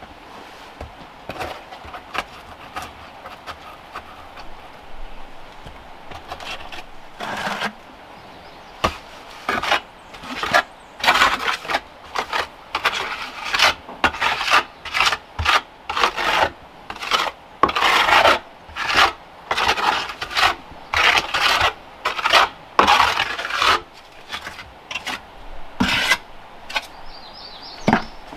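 Hand tool worked back and forth in rhythmic rubbing strokes, like a hand saw or rasp biting into material. The strokes are soft and scattered at first, then come steady and loud, about one and a half a second, before stopping with one last stroke near the end.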